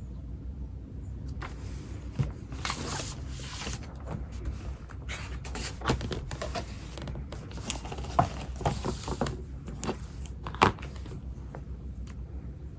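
Writing on paper: irregular scratchy strokes with a few sharp taps, coming in bursts through most of the stretch, over a steady low background hum.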